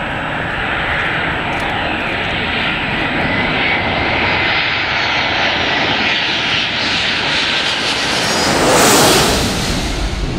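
Airliner flying low overhead, its engine noise building steadily to a peak near the end and then starting to fade, with a faint gliding whine over the rush.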